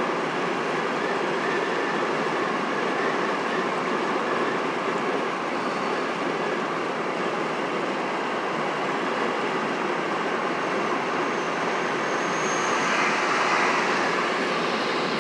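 Steady road and wind noise inside a car's cabin at highway speed, the tyres running on the pavement, swelling slightly near the end.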